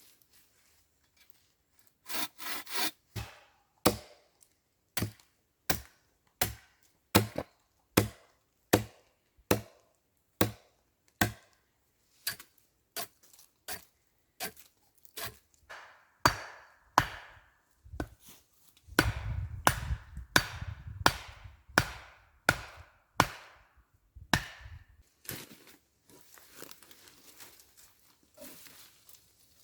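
Wood being worked with a hand tool in a regular run of strokes, a little more than one a second, starting about two seconds in. The strokes come quicker and closer together past the middle, then fade to faint rubbing near the end.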